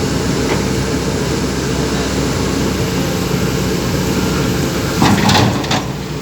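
Engine running steadily with a low drone. A short, loud burst of clatter comes about five seconds in.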